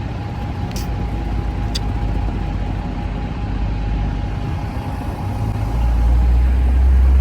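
Street traffic at a busy intersection: a steady low engine rumble, with two short clicks near the start, swelling to a much louder low rumble about six seconds in as a heavy vehicle passes close by.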